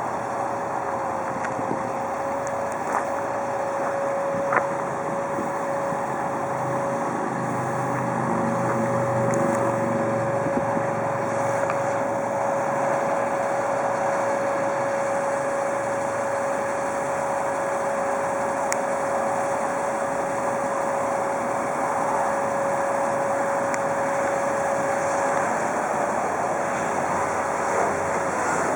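2002 Freightliner FL70 bucket truck running steadily, with a constant high whine over the engine noise that drops in pitch near the end.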